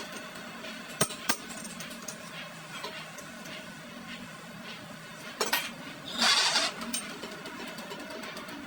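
Metalworking workshop sounds: two sharp metallic clinks about a second in and a louder rushing burst about six seconds in, over a faint steady machine hum.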